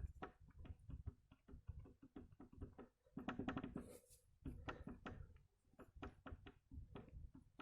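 Faint, irregular knocks and clicks from a Fiat Doblo's right drive shaft as it is rocked up and down by hand, a denser run of knocks about three seconds in. The play and knocking come from the middle of the shaft, the sign of a worn inner CV joint.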